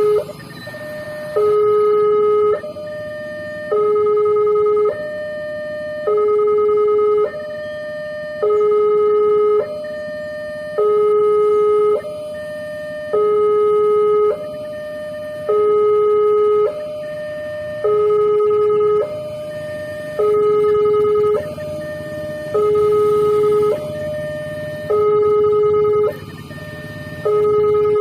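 Railway level-crossing warning alarm sounding: an electronic two-tone signal switching steadily back and forth between a louder lower tone and a higher tone, each held a little over a second, warning that a train is approaching and the barrier is closing.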